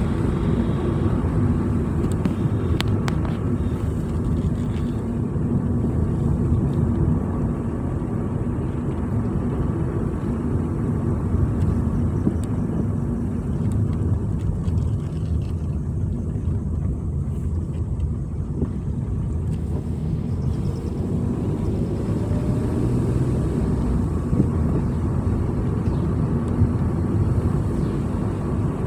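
A vehicle driving along a road: a steady low rumble of engine and road noise that does not let up.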